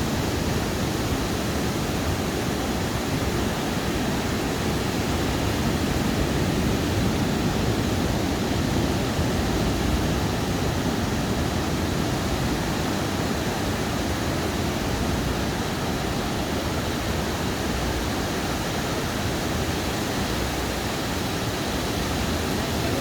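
Surf breaking on a sandy beach: a continuous, even wash of wave noise with most of its weight low down and no distinct single breakers.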